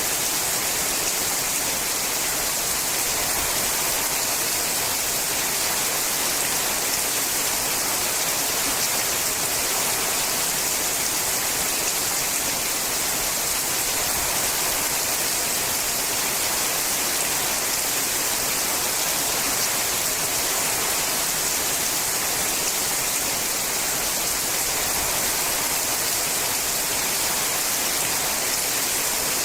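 Steady rain falling on a sheet-metal roof, a dense, even hiss with no letup.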